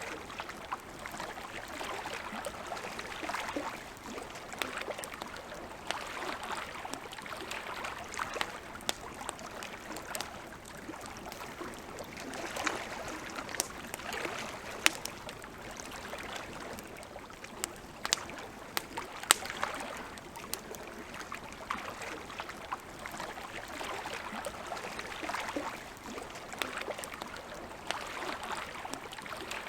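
Campfire crackling, with scattered sharp pops, a few of them loud, over a soft wash of lake water that swells and fades every few seconds.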